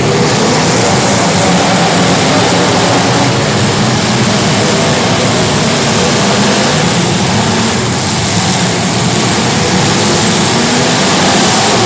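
Several small race car engines running together in a feature race, a loud, continuous drone whose overlapping pitches waver up and down as the cars go around.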